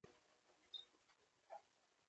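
Near silence, with one faint, short, high-pitched bird chirp a little under a second in and a fainter, lower sound about half a second later.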